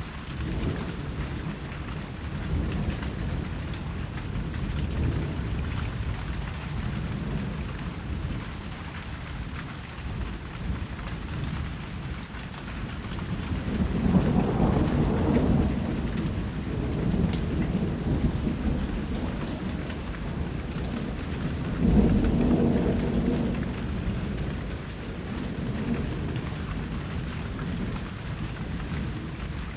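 Steady rain falling, with deep rolls of thunder swelling up twice, about halfway through and again about three quarters of the way in.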